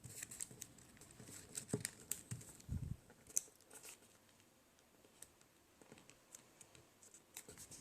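Origami paper being folded and creased by hand: faint, scattered crinkling and crackling, with a soft low thump a little under three seconds in.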